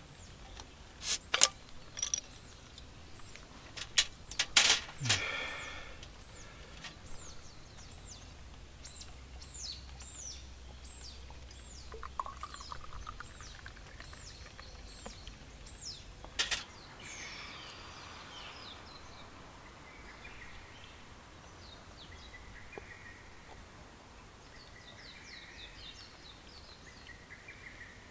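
Wild birds singing: a run of high, quick, downward-sweeping chirps, then softer trilling calls. A few sharp clicks and knocks in the first five seconds and again about midway.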